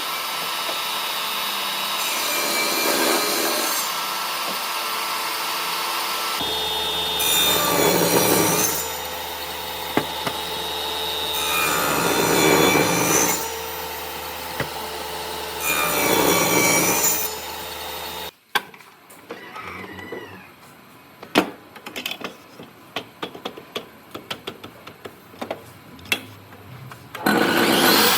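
Wood being sawn, with a louder surge every four seconds or so as the cut bites. Partway through the sawing stops abruptly, leaving scattered light taps and knocks, and the sawing resumes near the end.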